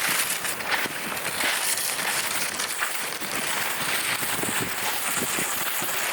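Footsteps crunching through snow in an uneven walking rhythm, with a steady rush of wind over the microphone.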